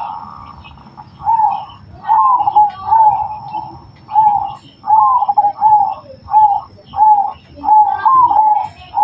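Zebra dove (perkutut) cooing: a long run of short, clipped notes, repeated about every half to one second, starting about a second in.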